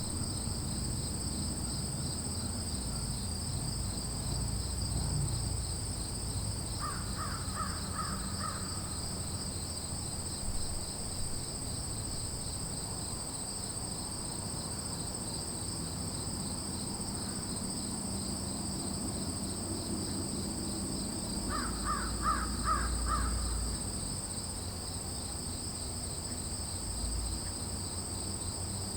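Crows cawing in two short series of several quick caws each, about a quarter of the way in and again about three-quarters through, over a steady high-pitched chorus of crickets.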